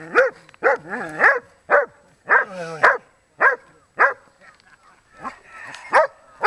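Dog barking repeatedly, about a dozen short barks, one drawn out into a falling whine about three seconds in, with a brief pause a little past the middle.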